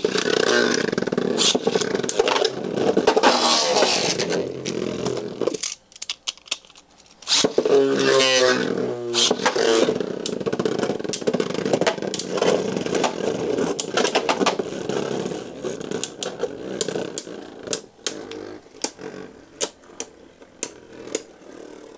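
Beyblade Burst spinning tops launched into a plastic stadium, whirring and scraping as they spin, with sharp clacks as they hit each other. A first round stops after about six seconds, a second launch follows about a second later, and that round runs on, getting quieter as the tops slow.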